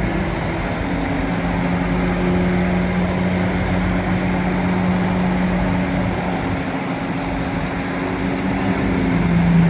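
Bulldozer's diesel engine running steadily, a low even hum that holds one pitch.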